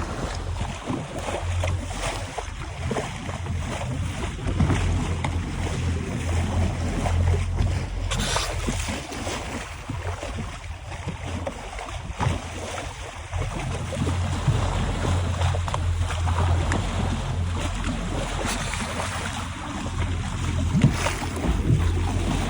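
Wind buffeting the microphone on a boat on open water, a low rumble that comes and goes, over a hiss of waves and water.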